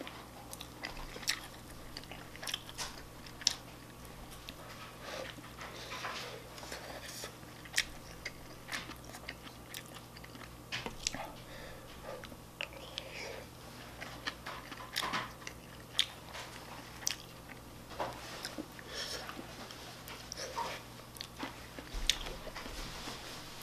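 Close-up chewing and mouth sounds of a person eating shrimp fried rice, with scattered sharp clicks of a wooden spoon and chopsticks against a ceramic bowl.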